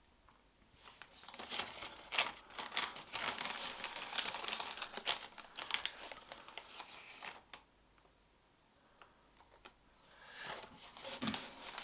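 Silicone spatula stirring and scraping thick wood filler paste around a flexible plastic mixing bowl, in irregular scratchy strokes. It stops for a couple of seconds past the middle, then starts again near the end.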